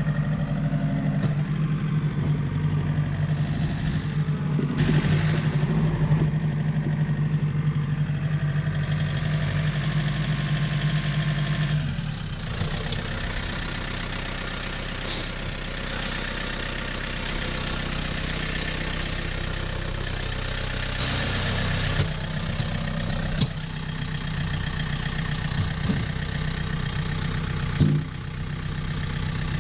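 Old John Deere tractor engine running steadily. About twelve seconds in, its sound shifts to a thinner, hissier run, with a few sharp knocks near the end.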